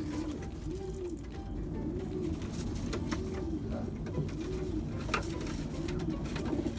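Several racing pigeons cooing, their repeated rising-and-falling coos overlapping in a steady run, with a sharp click about five seconds in.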